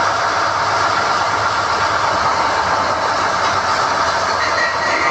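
SDH-1600 core drilling rig running steadily while NQ drill rods are hoisted out of the hole: a loud, even machine noise with no distinct knocks or pauses.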